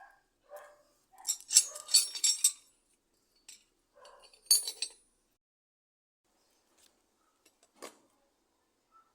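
Metal parts clinking and tapping: a quick flurry of ringing clinks about a second in, another short cluster near the middle, and one single knock near the end.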